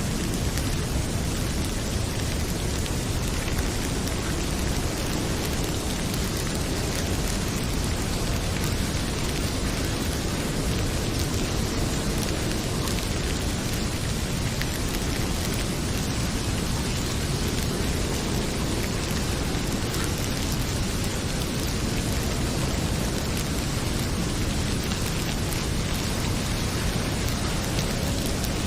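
Heavy rain falling steadily: a dense, even hiss with a deep low rumble beneath it. A fireplace fire crackles faintly now and then through the rain.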